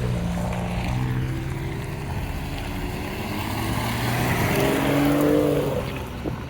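A car engine accelerating as it drives past, its pitch climbing and loudest about five seconds in, then fading away.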